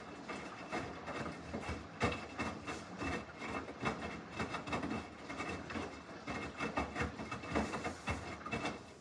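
Samsung washing machine on a normal wash cycle, its drum turning the wet load: irregular knocks and rubbing with a faint steady whine, dropping away near the end as the drum pauses.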